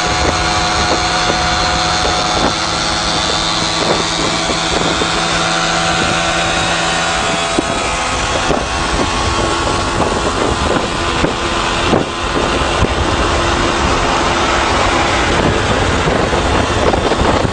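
Motorcycle engines running with a steady drone and occasional pops, with wind buffeting the microphone.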